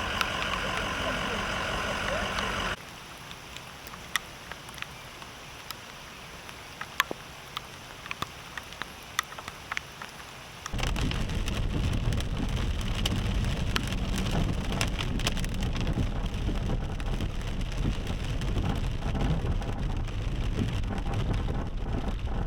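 A vehicle engine running briefly, then scattered drips and taps over a quiet background, then heavy steady rain from about ten seconds in.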